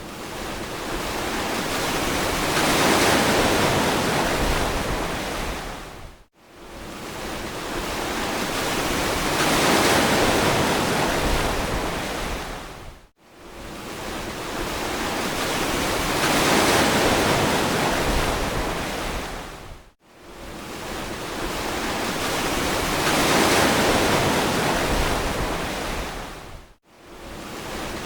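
Ocean waves breaking on a beach, each wave swelling up and washing back in long even cycles about seven seconds apart, with the sound dropping almost to silence for a moment between waves.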